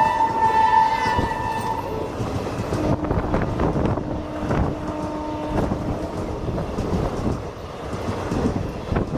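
The WAP-5 electric locomotive's horn finishes a long blast, fading out about two seconds in. Then the superfast express coaches rush past at speed with a loud rushing noise and wheels clattering on the rails.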